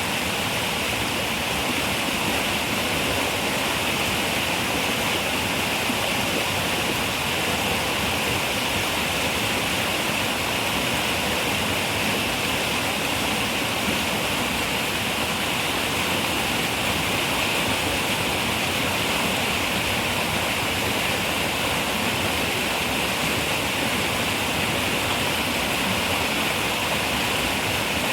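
River water running over rocks, a steady rushing with a bright hiss.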